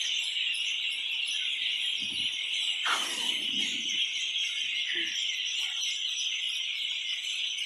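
A dense, unbroken chorus of many small birds chirping together, high-pitched and steady. About three seconds in there is a brief low rustle.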